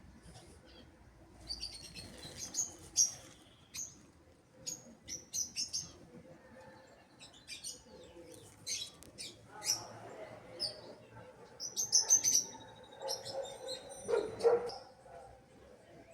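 Small birds chirping in many short, high chirps scattered irregularly, with a lower, hazier sound joining them in the second half.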